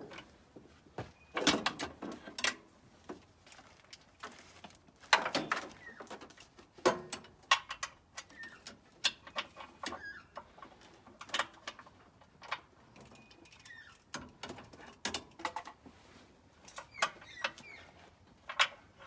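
Irregular metallic clinks, taps and scrapes of hand tools and bolts as the gearbox is bolted up to the V8 engine, with a few longer scraping sounds among the clicks.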